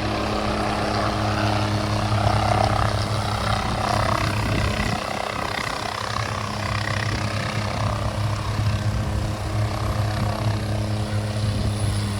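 Helicopter running steadily, with a constant low hum whose pitch does not change.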